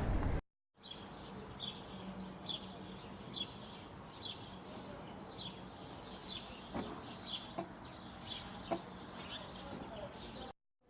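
Small birds chirping: short high chirps about once or twice a second, growing busier toward the end, with a few faint clicks. A brief burst of louder noise cuts off in the first half second.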